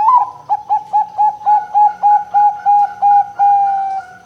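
Zebra dove (perkutut) singing its cooing song: a rising opening note, then a quick even series of about a dozen short coos, roughly four a second, ending on a longer held note.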